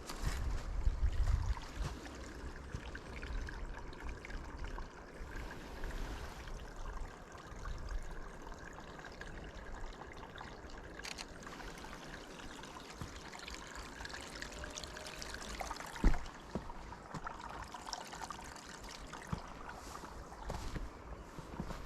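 Water trickling steadily, with a single sharp click about sixteen seconds in.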